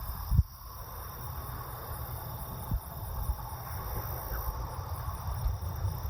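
Gusty wind rumbling on the microphone over a faint steady high whine, with a single knock about half a second in.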